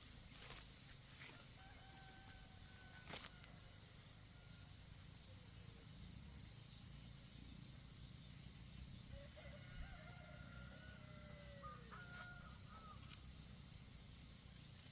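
A rooster crowing faintly from a distance once, about nine seconds in, over a steady high-pitched insect buzz.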